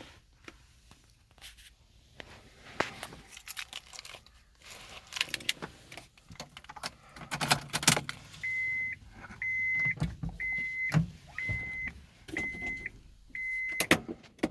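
Car keys jangling with scattered clicks of handling, then a car's warning chime beeping six times, about once a second, at one steady pitch.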